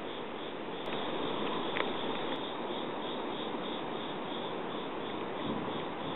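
Steady outdoor hiss with faint, evenly repeating high chirps of night insects, such as autumn crickets, and a couple of light clicks.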